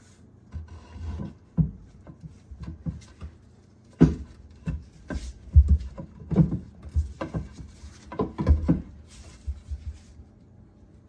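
Irregular knocks, heavy thumps and scrapes of a wooden 2x4 being worked against a jet ski engine to shove it forward on its mounts and uncouple it from the jet drive. The hits come unevenly, thickest through the middle of the stretch.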